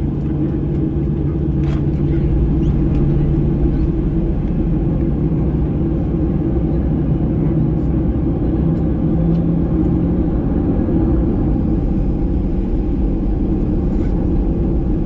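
Cabin noise inside a Boeing 737-800 before takeoff: a steady low rumble and hum from the engines and aircraft systems, with no build-up of power. A few faint ticks sound over it.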